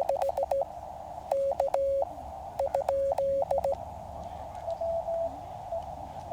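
QRP CW transceiver's Morse code sidetone, a steady tone near 600 Hz keyed on and off in three quick groups with clicks at each key stroke, as the operator sends. Over a band of receiver hiss, a fainter Morse signal from another station is heard about five seconds in.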